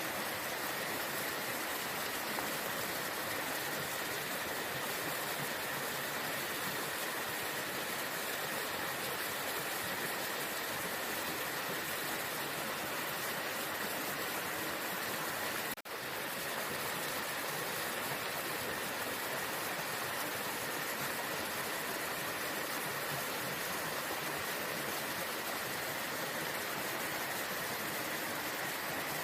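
Waterfall: a steady rush of falling water, with a momentary dip in level about halfway through.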